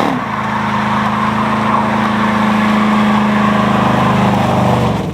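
Car engine held at steady revs, one constant pitch for several seconds, falling away near the end.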